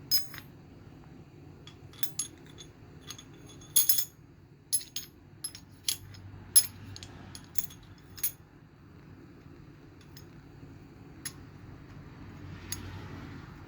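Irregular light metallic clinks and taps of steel valvetrain parts (pushrods and rocker pieces) being handled and set into a GM 4.3 V6 engine, over a steady low hum.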